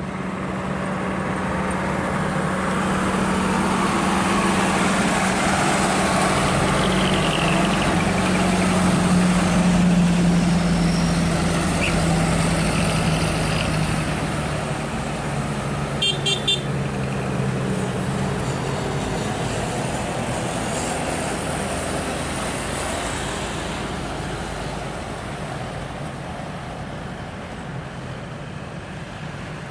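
Twin turbofan engines of a Bombardier CRJ1000 jet running as the aircraft moves past, a steady low drone with a humming tone that swells to a peak and then fades away. A few brief clicks come a little past halfway.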